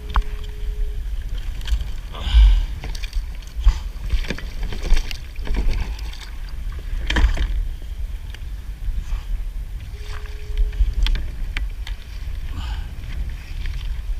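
Water sloshing and splashing around a kayak, with scattered knocks and clicks of gear against the hull over a steady low rumble. Two louder splashes come about two and seven seconds in.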